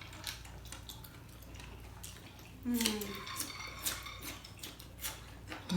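Close-up mukbang eating sounds: chewing seafood with many small wet mouth clicks. A brief vocal sound comes about three seconds in.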